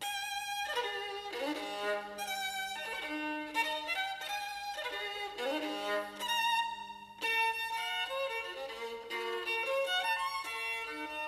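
Solo violin, announced as a Pietro Guarneri, playing a slow melody of held notes with audible slides between them. The listener judges its tone noble but a bit thin, with an exceptional soprano register.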